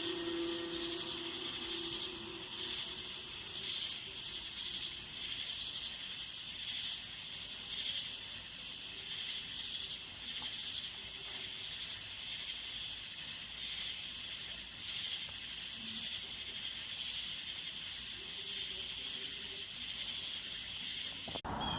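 A steady high-pitched whine over a faintly pulsing hiss, cutting off suddenly just before the end.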